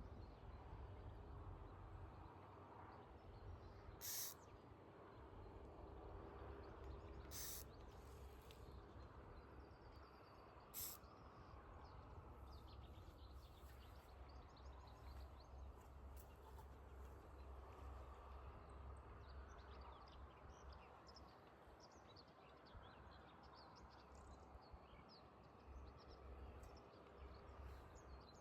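Near silence: a faint low rumble with distant birds calling, and three short sharp clicks about four, seven and a half and eleven seconds in.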